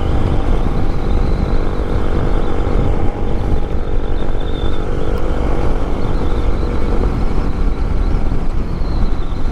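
Yamaha MT-07's parallel-twin engine running at a steady cruise under way, with heavy wind rumble on the microphone. The engine note shifts slightly about seven seconds in.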